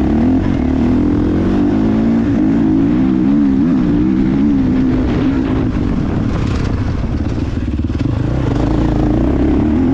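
Motocross motorcycle engine running hard, its pitch rising and falling over and over as the throttle is opened and shut.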